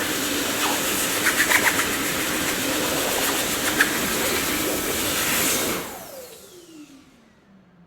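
Dyson vacuum cleaner running with a steady rushing noise and a few sharp clicks about a second and a half in. About six seconds in it is switched off, and the motor's whine falls in pitch as it spins down.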